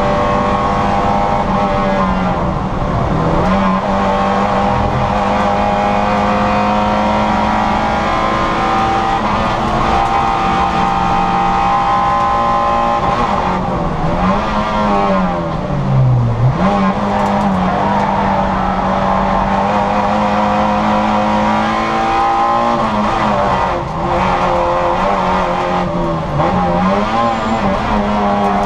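Citroën Saxo VTR's four-cylinder engine heard from inside the car, held at high revs most of the time. The revs drop away about three times, deepest near the middle, as the car slows for corners, then climb again under full throttle.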